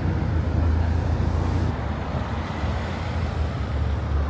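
Nissan Skyline R34 GT-R V-Spec's twin-turbo straight-six running with a steady low exhaust rumble as the car rolls slowly.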